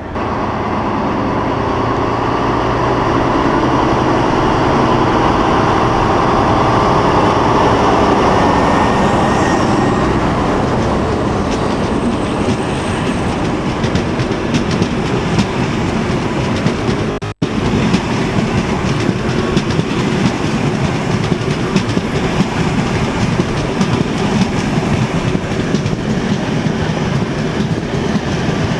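DB class 601 TEE diesel train running past close by: a steady rush of running noise that swells over the first several seconds, then a fast, dense clatter of wheels over the rails as the coaches go by. The sound drops out for an instant a little past halfway.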